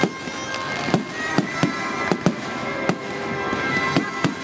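A fireworks display: shells bursting in sharp, irregular bangs and cracks, about two a second, over music from a public address system with long held tones.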